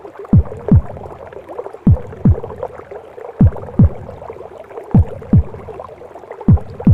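Recorded heartbeat in a womb-sound mix: slow, deep double thumps (lub-dub) about every second and a half, five pairs in all, over a steady whooshing, gurgling womb noise.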